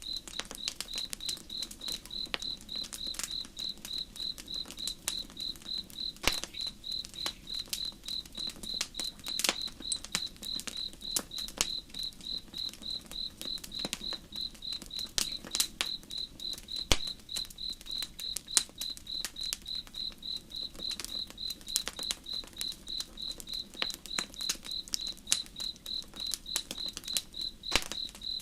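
Crickets chirping in a fast, even pulse over a crackling campfire, with sharp pops scattered through it and a few louder snaps. A faint low rush of the river lies underneath.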